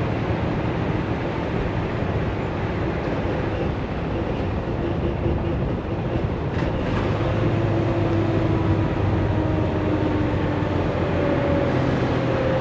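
Semi truck engine and road noise heard from inside the cab while driving, a steady drone with the engine pitch climbing in the second half.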